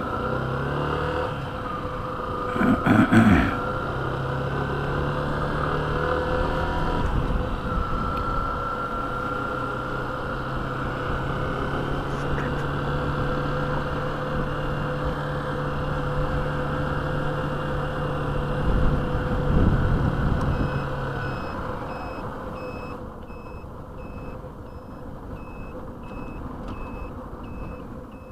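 Yamaha motorcycle riding in city traffic: steady engine and road noise, with two louder surges, one a few seconds in and one about two-thirds through, then quieter. Near the end an electronic beep repeats about once a second, like a vehicle's reversing alarm.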